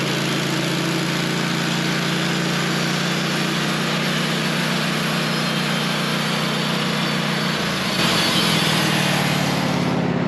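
Bandsaw sawmill running, its engine humming steadily while the band blade cuts through a honey locust log with a steady hiss. About three-quarters of the way through the engine note shifts and the sound grows a little louder, and the highest part of the hiss falls away near the end.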